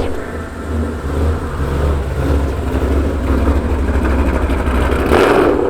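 Ford Mustang 5.0 Coyote V8 running with a steady deep rumble, swelling louder briefly near the end.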